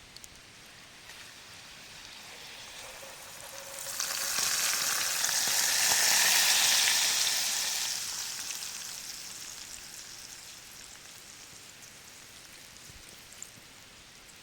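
Sizzling hiss from food or the fire at the campfire. It swells about four seconds in, holds loud for a few seconds, then slowly dies away.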